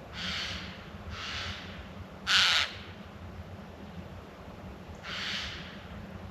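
Four harsh, hissing bird screeches of about half a second each; the third is the loudest.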